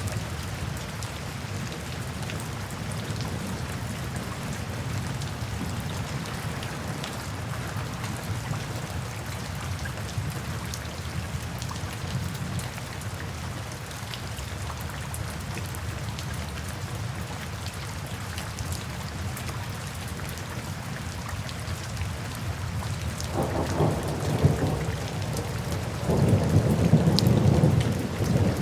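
Steady rain falling, with thunder rumbling near the end: a first roll, then a louder one lasting a couple of seconds.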